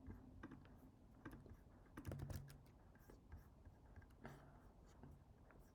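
Faint, scattered computer keyboard keystrokes, with a short cluster of clicks about two seconds in.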